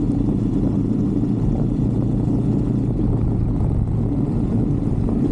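125cc Brixton motorbike's single-cylinder engine running at a steady cruise, a constant low drone with a rumble beneath it.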